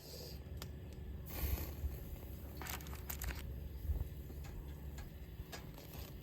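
Scattered light clicks and short rustles of things being handled, over a steady low rumble.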